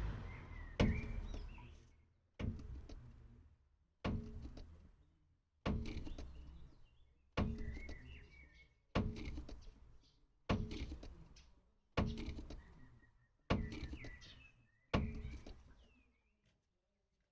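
A 2012 Peugeot 308's suspension knocking as it rebounds: ten sharp knocks, one about every one and a half seconds, each dying away before the next. The knock comes as the suspension extends, the sign of a fault in the suspension.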